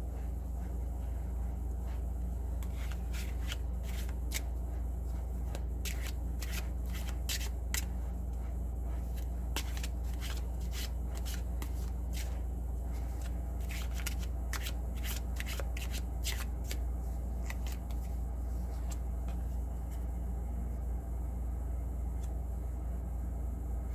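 A deck of tarot cards being shuffled by hand: a long run of quick card snaps and flicks that starts a few seconds in and dies away well before the end, over a steady low hum.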